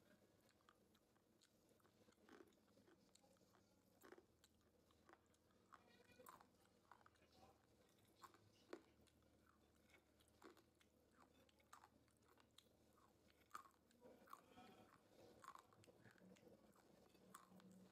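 Faint chewing of crispy fried green peas and cashew nuts: irregular sharp crunches, a few every second.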